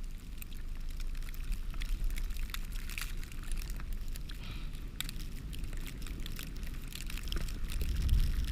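Blizzard wind rumbling on the microphone, with scattered light crackling and crunching throughout.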